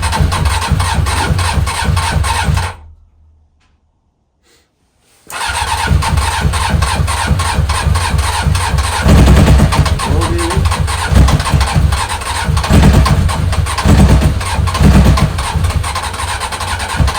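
A 1997 Honda CBR900RR Fireblade's inline-four being cranked over by its starter motor with the choke on, not yet catching after three years without running. The cranking stops about two and a half seconds in, starts again a couple of seconds later for a long second attempt, and cuts off sharply near the end.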